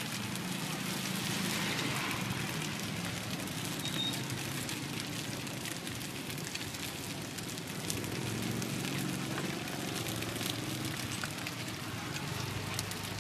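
Nom kouchay (chive rice cakes) frying in oil in a wide pan: a steady sizzle with many small crackles and pops.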